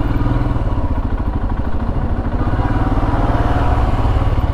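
Royal Enfield Himalayan's single-cylinder engine running at low revs in slow traffic, a steady, fast, even pulse.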